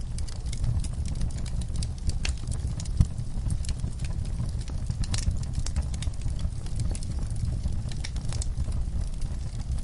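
Wood fire burning in a fireplace: a steady low rumble of the flames with scattered crackles and pops, one louder pop about three seconds in.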